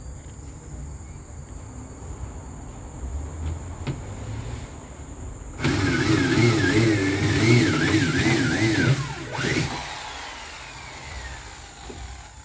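A motor runs loudly for about four seconds, starting suddenly, its pitch wavering up and down under load. It then cuts off, and its pitch falls as it winds down.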